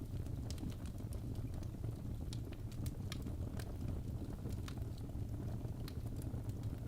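Wood logs burning in a fireplace: a steady low rumble of flame with scattered sharp crackles and pops, a few each second.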